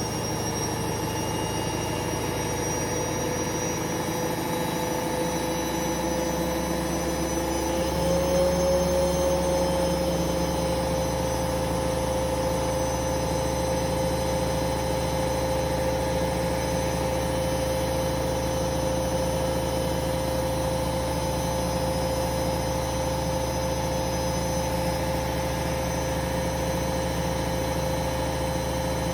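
Hoover Vision Dynamic washing machine spinning at high speed on a spin-only programme: a steady motor whine with drum vibration. About eight seconds in, the pitch steps up a little as the drum speeds up, then holds steady.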